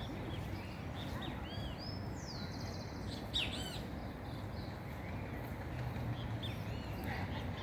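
Several small birds chirping and calling in short repeated notes, with one longer descending trill a little over two seconds in, over steady low background noise.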